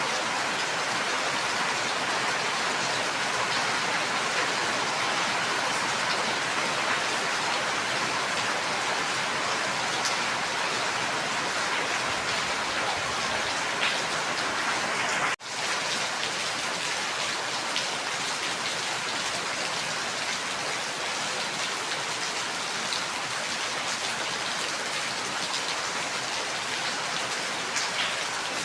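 Steady, heavy rainfall with scattered individual drops heard on top. About halfway through the sound cuts out for an instant and resumes.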